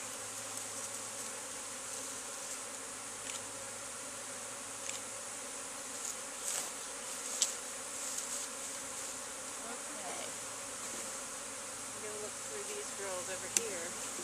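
Honeybee swarm buzzing steadily, the hum of a mass of disturbed bees in the air around the cluster, with a couple of sharp clicks.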